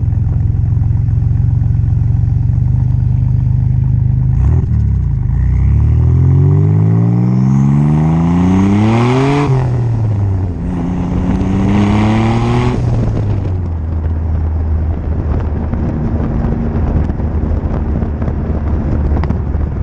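1986 Nissan 300ZX Turbo's 3.0-litre turbocharged V6 running through its exhaust: a steady idle, then revved up in a long climb that drops off sharply about nine seconds in, revved again and held briefly, and settling back to a steady idle.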